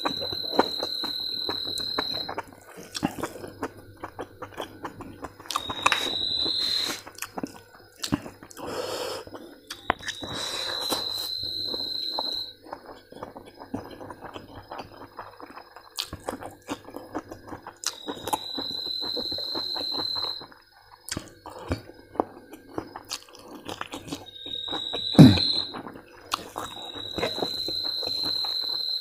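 Close-up eating sounds: chewing, lip smacks and small mouth clicks. Over them a high, steady whistle-like tone about two seconds long comes six times at irregular gaps, and a sharp knock sounds near the end.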